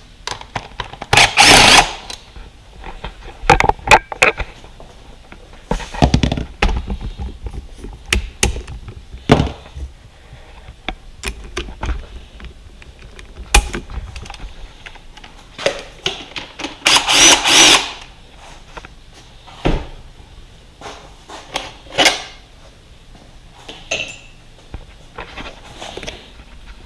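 A handheld power tool run in two short bursts of about a second each, one near the start and one about two thirds of the way in, with scattered knocks and clicks of tools and metal parts being handled in between, while dirt bike bolts are taken out.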